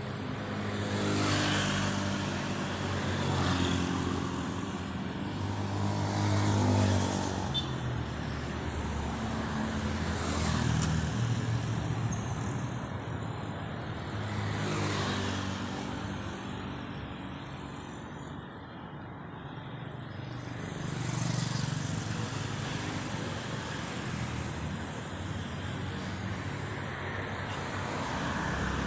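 Road traffic passing: engines of cars and motorbikes coming and going, each swelling and fading in turn.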